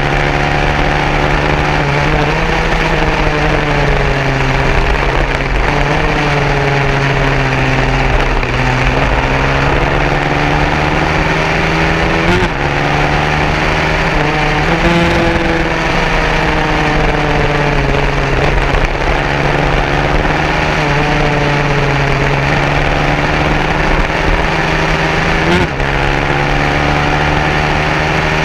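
150cc racing motorcycle engines running, their pitch rising and falling every few seconds as they rev up and ease off, over a steady low engine drone.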